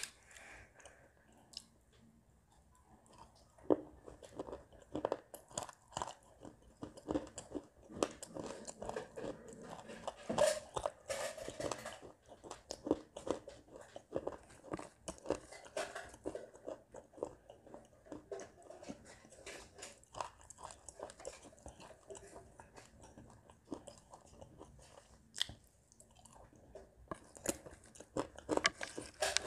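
Close-up eating sounds: biting, crunching and chewing a crumbly, soaked brown clay mix, with many irregular crisp crackles. There is a quieter gap about a second in, then the chewing resumes.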